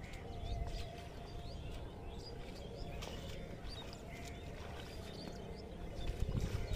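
Birds chirping repeatedly in short, high calls over a steady low rumble.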